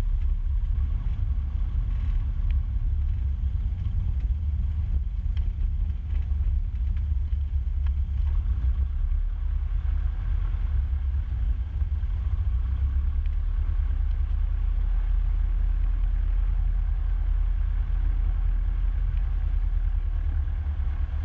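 Cessna 150's four-cylinder Continental O-200 engine and propeller running steadily at low taxi power, a constant low drone heard through the cockpit intercom.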